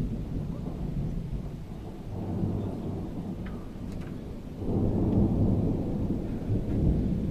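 Thunder rumbling low and continuously with rain falling; a louder roll of thunder swells in about two-thirds of the way through.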